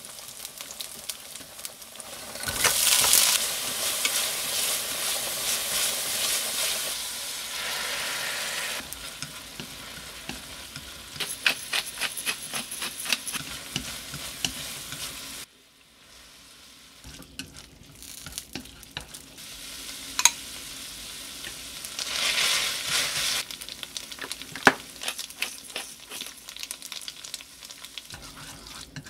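Garlic and shrimp sizzling in hot oil in a ceramic-coated frying pan, with chopsticks clicking against the pan as they stir. The sizzle swells loudly a couple of seconds in, drops away suddenly about halfway, and flares up again briefly a little over 20 seconds in.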